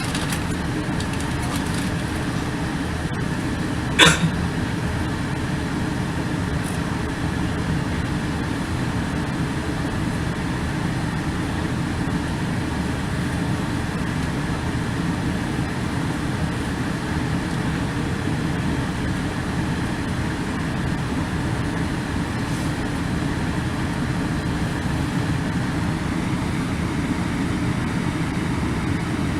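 South Western Railway Class 450 electric train running, a steady low rumble with no change in pitch, broken once by a sharp click about four seconds in.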